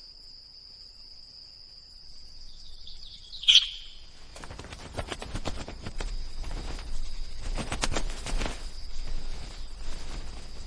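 A steady high insect drone, with one sharp, loud bird call about three and a half seconds in, followed by a run of irregular rustling clicks and knocks.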